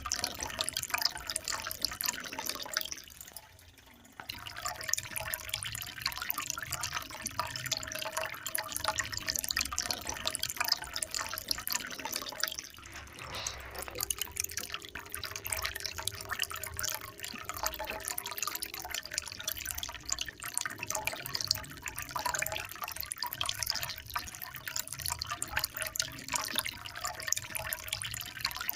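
Water trickling and splashing steadily in a continuous babble of small drips, dropping almost away for about a second three seconds in.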